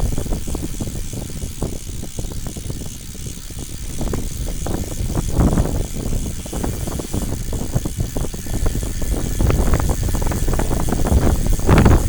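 Steady low rumble of a moving motor vehicle, with irregular buffeting against the microphone.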